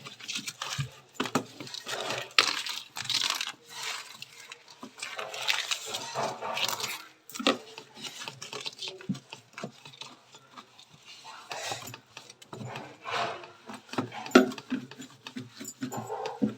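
Ice built up in a fridge's freezer compartment being chipped and scraped loose with a hard tool: irregular knocks, scrapes and clinks of breaking ice.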